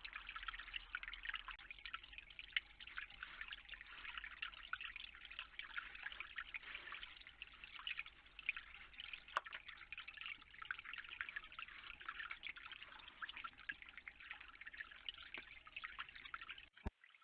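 Water dripping and trickling: a faint, dense patter of many small ticks that cuts off suddenly with a click near the end.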